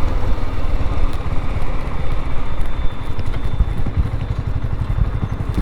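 BSA Gold Star 650 motorcycle engine running steadily while the bike is ridden along.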